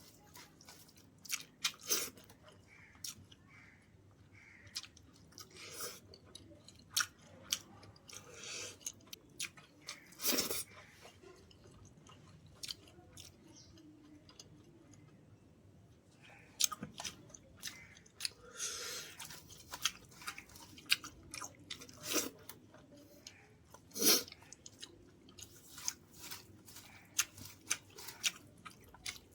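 Close-up chewing and crunching of food by a person eating, with irregular sharp crunches and mouth clicks and a quieter pause in the middle.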